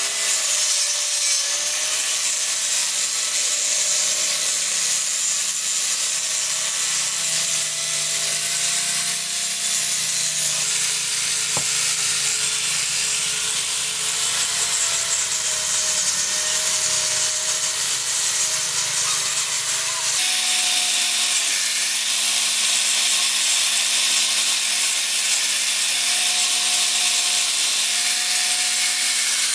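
A power tool running steadily against a workpiece: a dense high hiss with a faint, wavering high whine. The sound changes abruptly about two-thirds of the way through.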